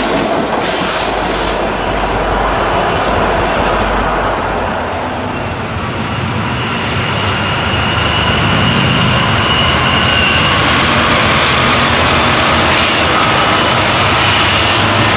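Freight train running past on the rails, a loud rumble with faint clicks of wheels over the joints. About five seconds in, the sound shifts to the low drone of approaching diesel freight locomotives that grows steadily, with a thin, steady high squeal over it for a few seconds.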